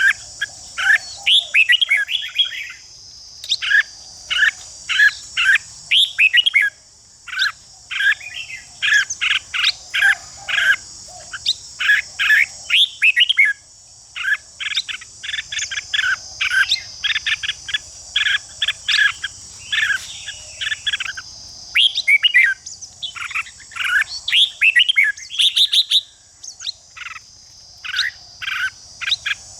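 Red-whiskered bulbuls singing fast, repeated short chirpy phrases in competition with each other. A steady high-pitched buzz runs underneath.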